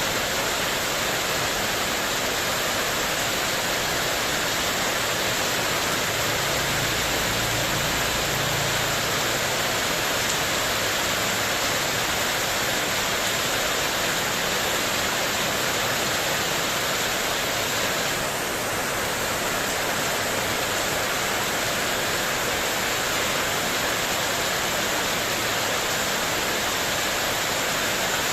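Heavy rain pouring steadily onto a spandek metal porch roof, a dense unbroken hiss. A faint low hum comes in about six seconds in and fades about three seconds later.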